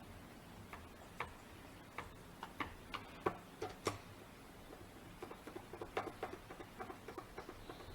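Light, irregular clicks and ticks of a hand tool and small parts against the chainsaw's plastic housing as the starter cover is screwed back on, with a quicker run of small ticks in the second half.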